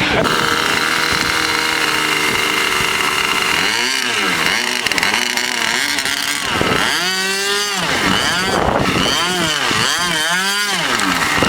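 Radio-controlled model boat plane's motor and propeller whining, its pitch swinging up and down again and again from about a third of the way in.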